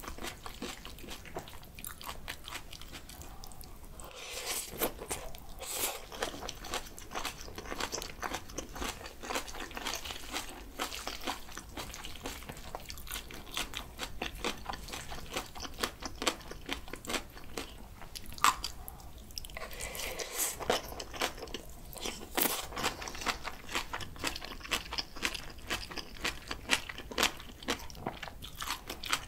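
Close-up eating sounds: crunchy chewing of raw spring cabbage kimchi and julienned radish in bibimbap, mixed with the wet clicking and scraping of a wooden spoon stirring the rice through the bowl.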